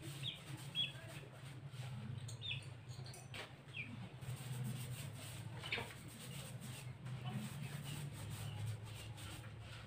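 Faint bird chirps, short and scattered, a few times over a steady low hum.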